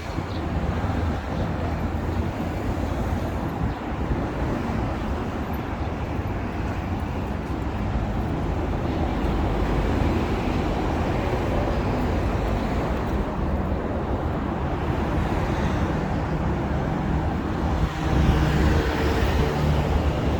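City road traffic: a steady rumble of passing cars, with a louder vehicle going by near the end.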